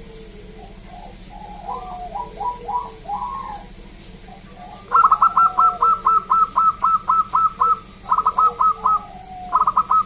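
Zebra dove (perkutut) cooing: a short run of notes about two seconds in, then a fast string of about a dozen clipped notes from about five seconds, followed by two shorter groups near the end, over a steady low hum.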